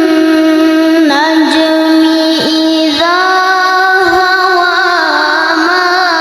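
A child's voice reciting the Quran in melodic tilawah style, holding long ornamented notes with a wavering pitch and pausing briefly about a second in and again near three seconds in.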